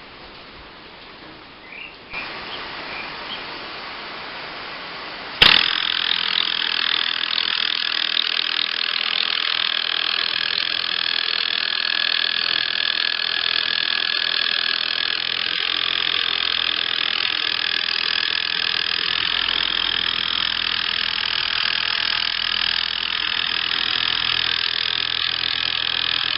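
Compressed-air motor running fast and driving a pump that turns at one sixth of its speed. A hiss of air comes up about two seconds in; after a sharp click about five seconds in, it runs steadily with a loud hiss and a high whine.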